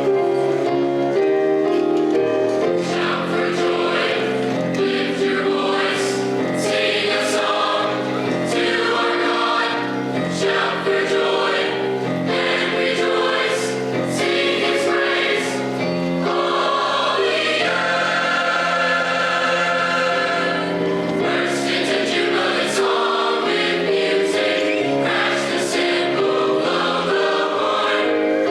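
A high school choir singing a song in several-part harmony, with many voices holding sustained chords.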